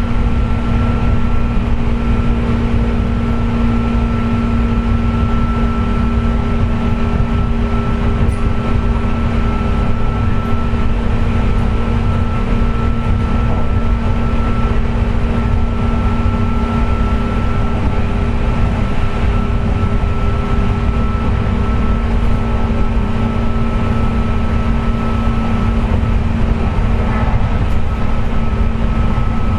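Running sound inside a JR West 201 series electric train's motor car at steady speed: a strong jet-like whine, heard as several steady tones, over the rumble of wheels on the track. The uploader attributes the whine to electrical erosion of the bearings.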